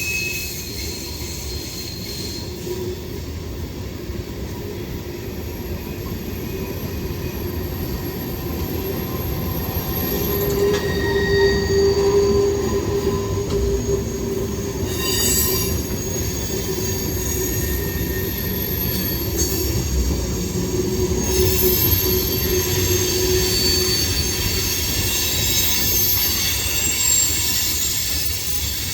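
Train rolling past with its steel wheels squealing in several thin, high tones over a steady rumble, growing louder about a third of the way in.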